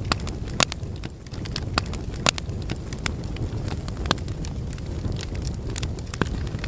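Wood fire burning in a fireplace: a steady low rumble of flames with irregular sharp crackles and pops from the logs, the loudest pops about half a second and two seconds in.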